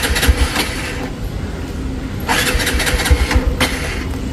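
Royal Enfield Himalayan's single-cylinder engine being cranked on the electric starter without catching. It makes two attempts: one ending just under a second in, another starting about two seconds in and lasting about a second and a half. This is the hard-starting the rider blames on E20 ethanol-blended fuel.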